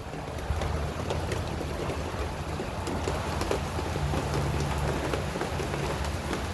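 Rain shower falling steadily, with a constant patter of many separate drops striking nearby surfaces.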